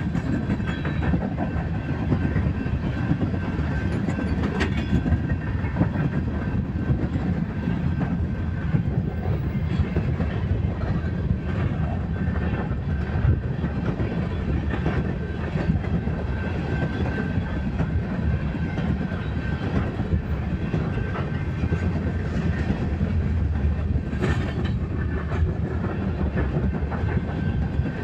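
Empty coal train's hopper cars rolling past, a steady low rumble with the clickety-clack of steel wheels over the rail joints.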